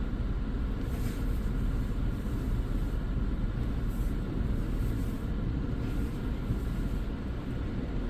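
Steady low rumble of a Chevy idling, heard from inside its cabin.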